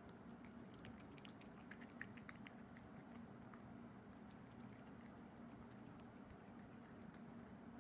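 A kitten eating wet cat food: faint, quick clicks and smacks of chewing and licking, thickest in the first few seconds, over a steady low hum.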